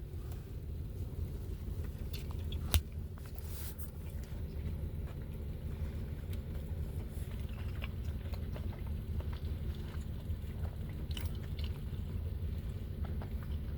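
People biting into and chewing a chicken and waffle sandwich, with faint crunches and mouth clicks over a low steady hum.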